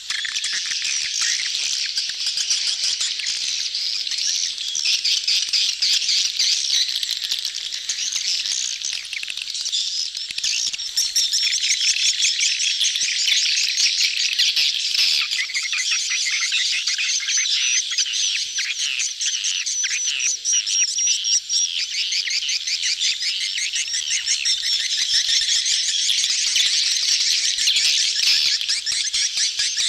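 A large crowd of edible-nest swiftlets twittering at once, a dense, unbroken mass of rapid high chirps from a colony in courtship. This is a swiftlet lure recording, played to draw swiftlets into a swiftlet house.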